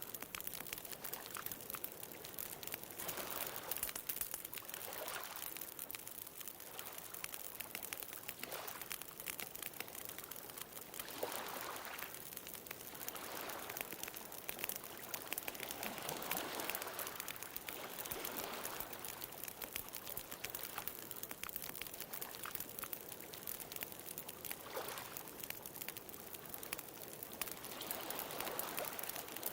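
Wood bonfire crackling with a steady scatter of small pops, while ocean waves wash in and draw back in several slow swells.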